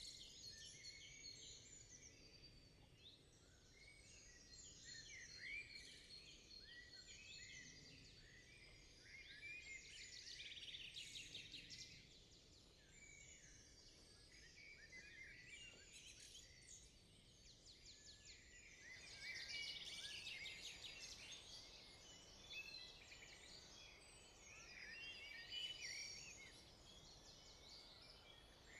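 Faint chorus of several small songbirds chirping and trilling in quick, overlapping calls, over a soft background hiss that grows fuller about two-thirds of the way through.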